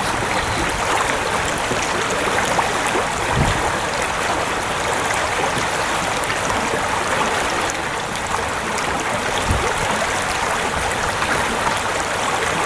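River current rushing steadily close by, with two brief dull low thumps, one a few seconds in and one near the end.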